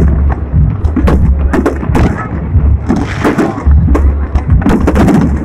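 Aerial fireworks launching and bursting in quick succession: a dense run of sharp bangs and cracks over a steady low rumble.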